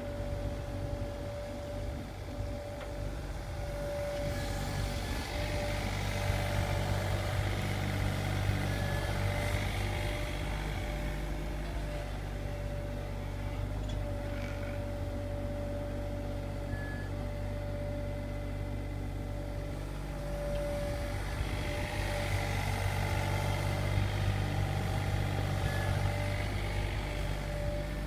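Sany SY35U mini excavator's diesel engine running, with a steady high whine over it. The sound swells twice, once from about four to eleven seconds in and again near the end.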